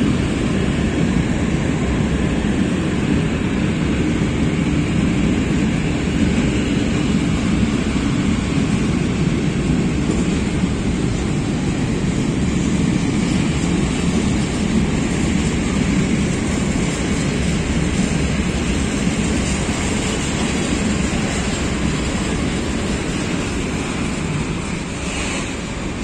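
Freight train rolling past in a steady rumble, fading slightly near the end.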